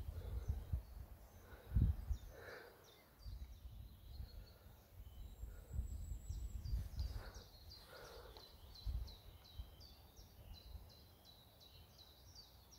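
A songbird singing a long run of short, high, falling notes, about three a second toward the end, over low rumbling on the microphone.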